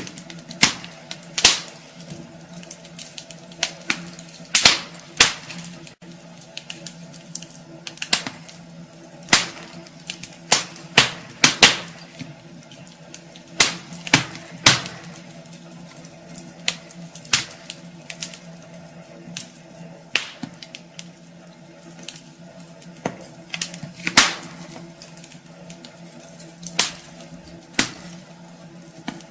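Wood fire crackling in a fireplace: irregular sharp pops and snaps, some loud and some faint, over a faint steady hum.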